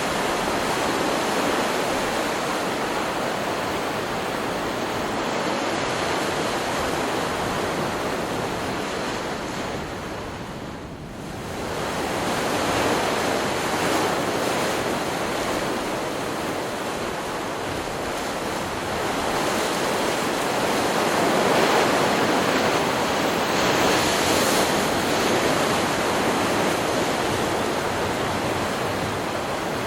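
Ocean surf from a stock beach recording: waves breaking and washing in as a continuous rush. It eases into a brief lull about a third of the way through, then builds again with louder surges in the second half.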